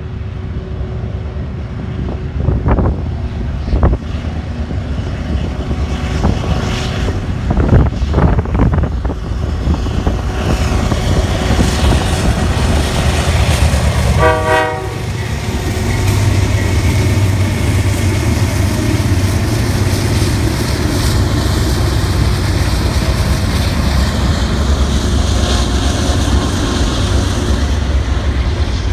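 Diesel-hauled CN freight train approaching and passing: the lead locomotive's engine grows louder as it nears, with one short toot of its horn about halfway through as the locomotive comes by. After that the engine runs loudest and steady, and the freight cars begin rolling past.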